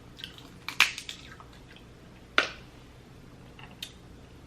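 Dungeness crab shell being cracked and snapped apart by hand: sharp cracks, the loudest about a second in among a few smaller ones, another a couple of seconds in, and a lighter one near the end.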